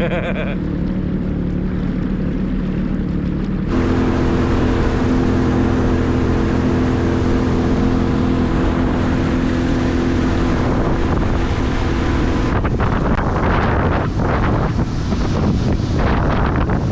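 Sea-Doo Spark Trixx jet ski's 90 hp three-cylinder Rotax engine running steadily, stepping up in revs about four seconds in and holding there. In the last few seconds it gives way to rougher, uneven wind and water noise.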